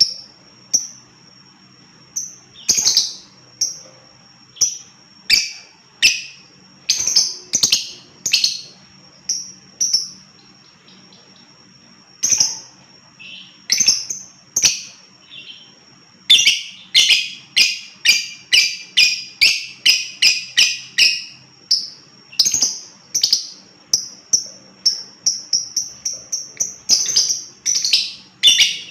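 Lovebird calling in shrill, high-pitched chirps, first spaced out, then in a fast unbroken run of chattering calls about halfway through and again near the end.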